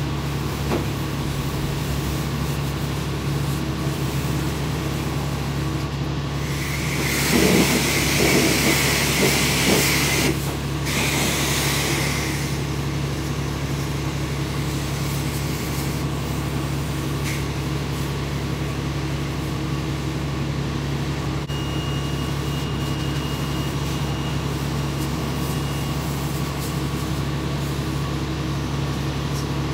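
Steady low mechanical hum throughout, with a self-serve car wash wand spraying a spot-free rinse as a loud hiss for about five seconds, from around seven seconds in, with a brief break in the middle.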